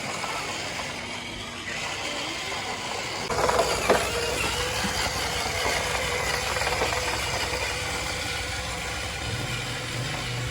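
A toy RC dump truck's small electric motor and gearbox running. About a third of the way in, a steady whirr sets in with a short clatter, then runs on evenly.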